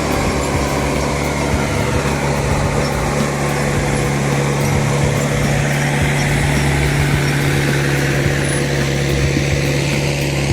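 Logging skidder's diesel engine running steadily under load with a constant hum, as the machine hauls logs.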